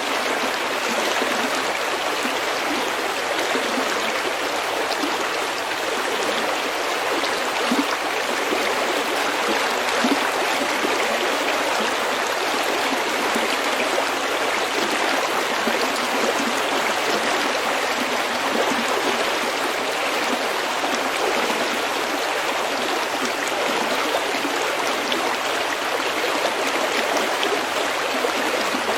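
A small stream running over pebbles: a steady, even babbling of water.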